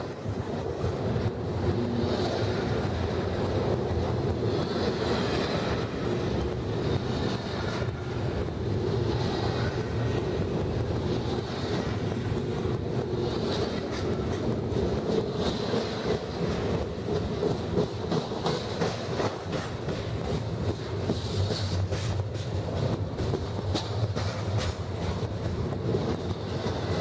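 Double-stack intermodal container well cars of a BNSF freight train rolling past: a steady rumble of steel wheels on rail, with the clickety-clack of wheels over rail joints.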